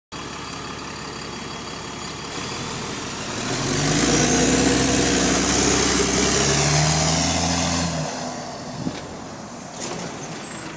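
Bus engine pulling under load, swelling about three seconds in with a high rising whistle over the engine note, then easing off near eight seconds. The noise is put down to an exhaust leak.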